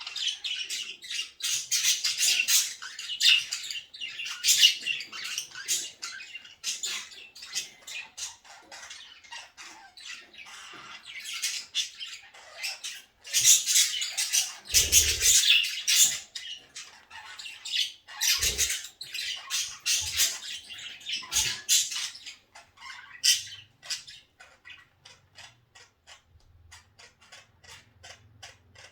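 Flock of pet budgerigars chattering and squawking in bursts of fast, high chirps, with a couple of low thumps midway. Near the end the chatter dies down to a run of light, even ticks.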